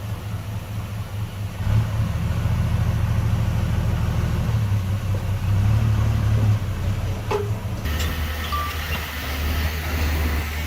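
Heavy diesel engine of earthmoving machinery running with a deep, steady rumble, growing louder about two seconds in; the sound changes abruptly near the end.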